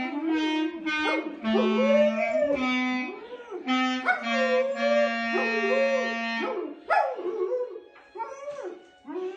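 A dog howling and whining in rising and falling pitches along with long held notes from a musical instrument; the instrument notes stop about six and a half seconds in, and the dog goes on with shorter howls.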